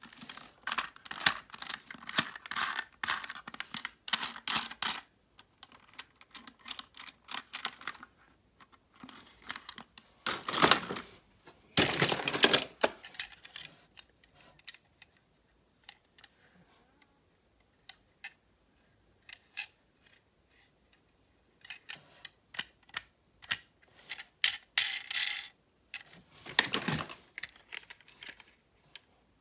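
Bursts of rapid, irregular clicking and clattering, like small hard objects being handled, with quiet pauses between the bursts.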